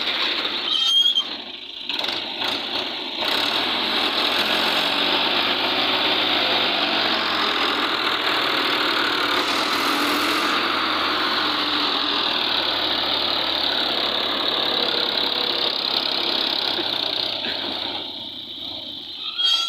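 Massey Ferguson 260 and Al-Ghazi tractor engines running hard under load while pulling against each other, a loud steady clatter that holds for most of the stretch and eases near the end.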